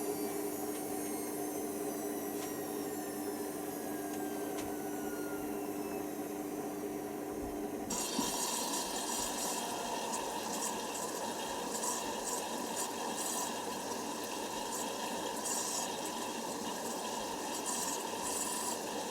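Hoover Nextra HNWL7146 washer dryer running: a motor whine slowly falls in pitch as the drum winds down, then about eight seconds in water starts rushing through the machine with a steady hum.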